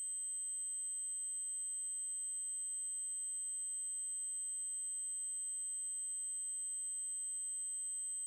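Synthesized 8192 Hz triangle-wave tone: a single steady, very high-pitched pure-sounding whistle that holds unchanged.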